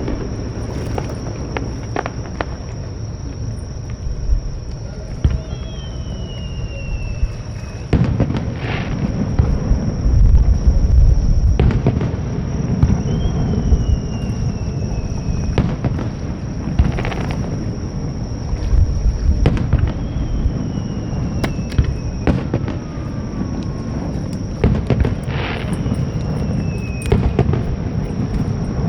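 Fireworks display: shell bursts going off one after another with sharp cracks and deep rolling rumbles, heaviest about eight to twelve seconds in. Several faint whistling tones slide slightly down in pitch between the bursts.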